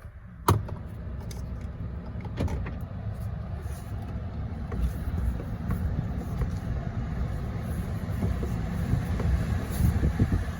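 Steady low rumbling vehicle noise, with a sharp knock about half a second in and a few fainter knocks after it.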